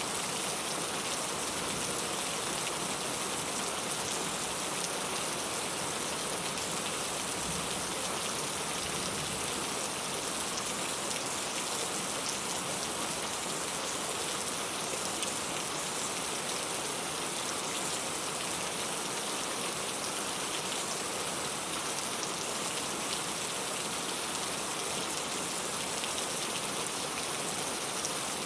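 Steady rain falling and pattering on a surface, an even hiss with fine individual drops.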